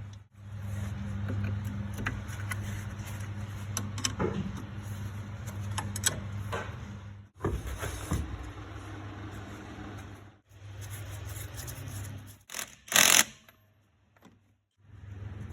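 Workshop sounds in several short cuts: a steady low machine hum with scattered clicks and knocks of tools. There is a louder clatter near the end, then a moment of near silence.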